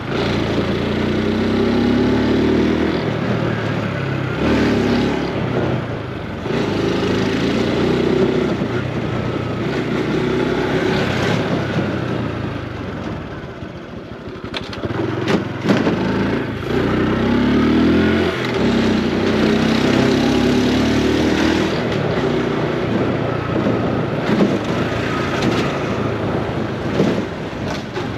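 Honda Super Cub C125's single-cylinder four-stroke engine and exhaust heard from the moving bike, pitch climbing under throttle then dropping at each shift. It eases off around the middle, with a few sharp clicks, then pulls away again.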